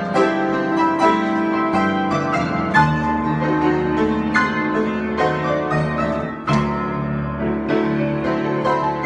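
Solo piano improvisation: chords and running notes played continuously, with a brief softening about six and a half seconds in before the playing swells again.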